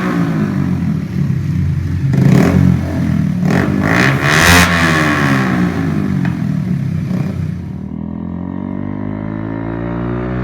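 Bajaj Pulsar 150's single-cylinder engine revving up and down through a loud Tech Hardy shorty exhaust, with several sharp backfire pops between revs. It settles to a steady lower idle near the end.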